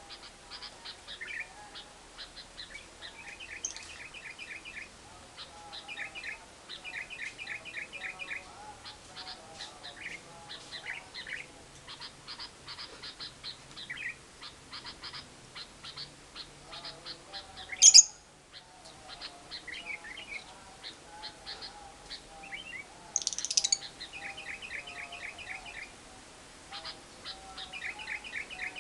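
Lovebird chattering in the long 'ngekek' style: rapid runs of short, high chirps repeated over and over. Two louder, sharp shrieks stand out, one past the middle and another a few seconds later.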